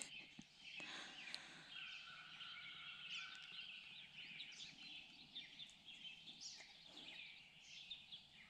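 Faint bird chirps and short calls from several birds, scattered and overlapping, over a quiet background hush.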